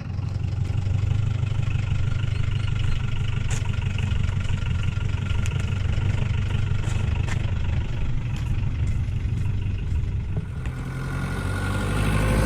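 Hindustan Ambassador's Stride engine idling steadily, a low even hum.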